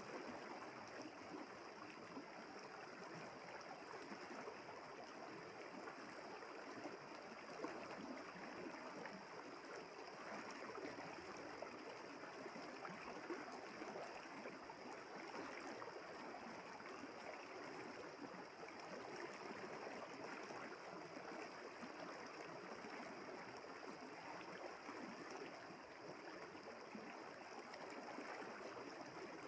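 River water flowing over stones, a steady gurgling rush with a few small splashes.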